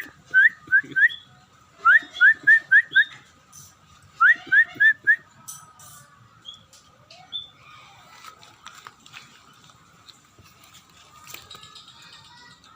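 Scaly-breasted munia (emprit peking) singing: short rising whistled notes in quick runs of four or five, three runs in the first five seconds, then only faint scattered calls. A faint steady high tone runs underneath.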